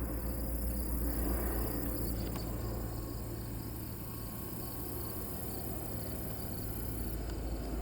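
Insects chirping in a steady, even rhythm, high-pitched, over a continuous low rumble.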